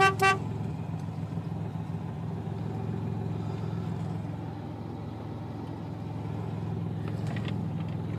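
Two quick toots of the 1996 Dodge Dakota's horn, then the truck's engine running steadily as it drives along slowly in four-wheel-drive low.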